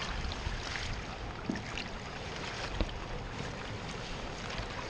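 Floodwater rushing through a drainage pipe that has just been cleared of a blockage, a steady hiss over low wind rumble on the microphone, with a sharp click about three seconds in.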